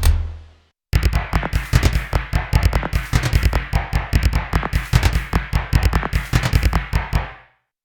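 Nord Drum 3P drum synthesizer, on a bank B preset, playing a sequenced groove: a fast, even run of sharp crackly hits over a low pulse. It starts about a second in, after the previous pattern fades away, and fades out near the end.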